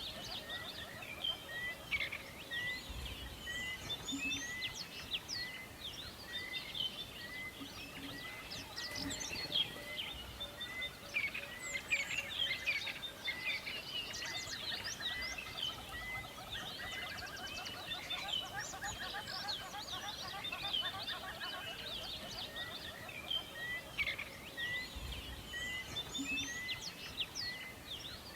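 Forest birdsong: many birds chirping and whistling over one another, with one bird repeating a short high note about once a second.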